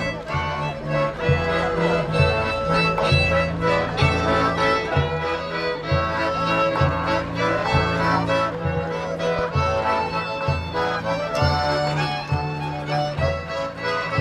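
Traditional folk music played on accordion and fiddle over a steady, rhythmic bass line.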